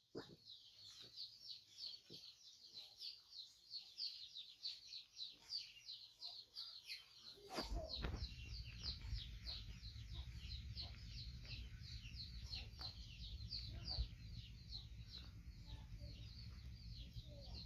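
A bird chirping over and over in a fast, even run of short high notes, about four a second. From about eight seconds in, a low steady rumble joins underneath.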